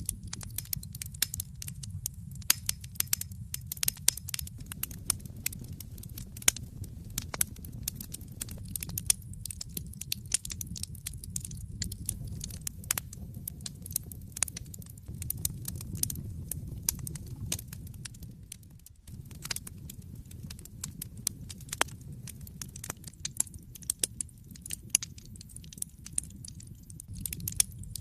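Wood fire burning in a fireplace, crackling with many irregular sharp pops and snaps over a steady low rumble of the flames.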